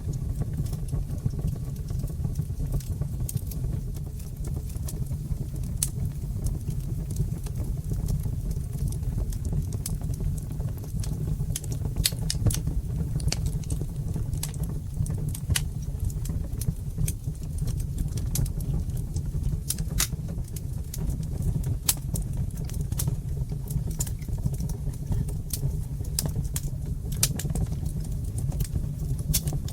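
Fire in a brick fireplace crackling: irregular sharp pops and snaps, several a second, over a steady low rush of the flames.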